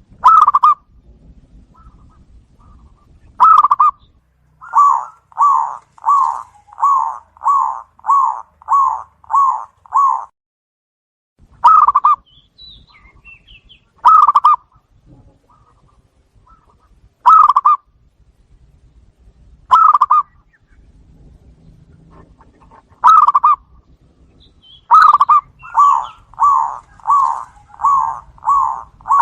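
Zebra dove (perkutut) cooing loudly. Single short coos come every few seconds, and twice a run of seven or eight quick, evenly spaced coos follows, about two a second, forming the bird's rhythmic song.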